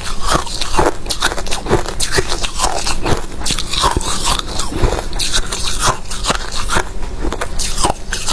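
Freezer frost being bitten and chewed: a dense, irregular run of loud crunches.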